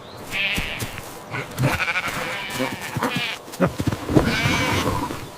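Sheep bleating several times in turn, wavering bleats with short knocks between them.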